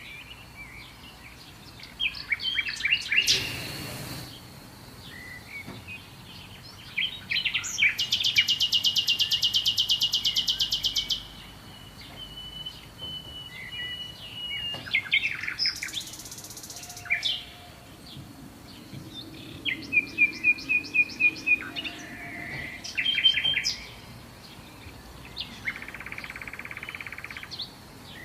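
Several songbirds singing and calling over a faint steady background. A loud, fast trill of rapidly repeated high notes runs for about three seconds, starting about eight seconds in. A shorter, lower trill comes around twenty seconds, with scattered chirps in between. A brief rushing burst sounds about three seconds in.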